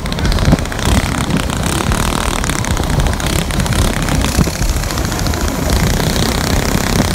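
Small mini bike engines running at speed under heavy, rough wind rush on the microphone.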